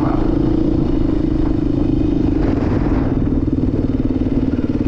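Beta dirt bike engine running steadily, its note dropping slightly and turning more pulsing about halfway through.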